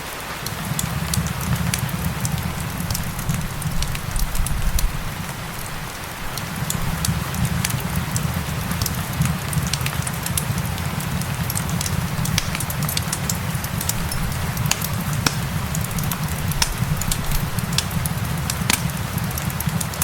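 Fireplace crackling with frequent sharp pops and snaps over a steady hiss of rain and a low rumble.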